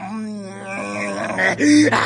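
A cartoon cat character's voice wailing in a long drawn-out moan, breaking into a louder, higher cry about one and a half seconds in.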